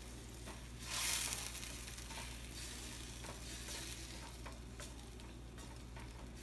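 Raw spinach purée with spices sizzling in hot oil in a stainless steel frying pan while a wooden spatula stirs it, with light scrapes against the pan. The sizzle swells briefly about a second in, then settles to a steady frying hiss.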